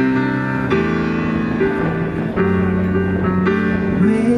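Live band playing an instrumental break, with piano or keyboard and guitar chords changing about every second; a voice comes back in singing near the end.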